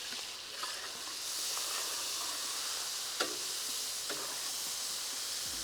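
Finely chopped onions frying in hot oil: a steady sizzle, with two light clicks about three and four seconds in.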